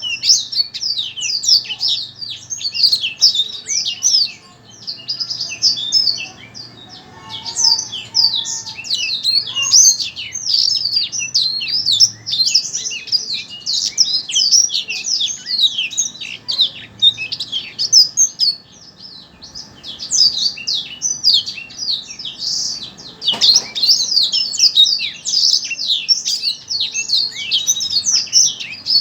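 A songbird singing a fast, unbroken chatter of high chirps and trills, the kind of masteran song played to fire up kept songbirds. There are short pauses about four seconds in and at around twenty seconds, and a single click a few seconds later.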